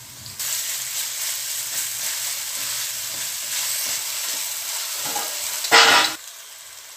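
Chopped onions and ginger-garlic paste sizzling in hot oil in a metal pot as they are stirred with a wooden spatula. The sizzle starts about half a second in, flares louder near the end, then cuts off suddenly.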